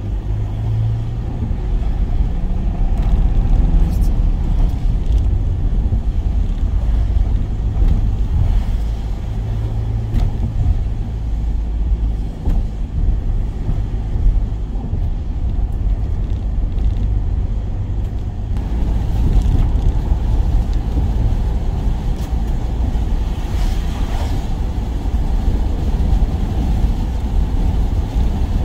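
Work van on the road: a steady low rumble of engine and road noise, with a faint engine hum coming and going.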